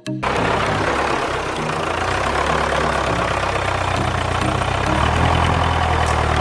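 Heavy vehicle engine running steadily, a loud low rumble with a noisy rattle over it, cutting in abruptly just after the start.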